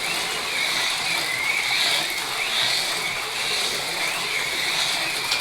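AFX Mega G+ HO slot cars racing: a steady high whine from their small electric motors that wavers up and down as the cars speed up and slow through the turns.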